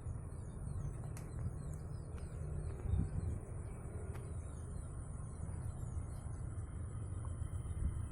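Small birds chirping, many short calls over a steady low rumble, with a thin steady high-pitched whine throughout.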